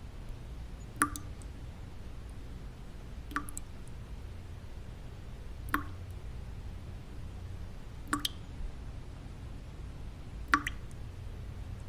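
Single water drops falling at an even pace, about one every two and a half seconds, five in all, over a steady low white-noise bed.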